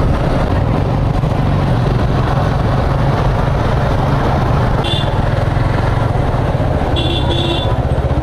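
Suzuki Gixxer FI ABS single-cylinder motorcycle running steadily at cruising speed, heard from the rider's camera with road and wind noise. Two short high-pitched tones sound about five and seven seconds in.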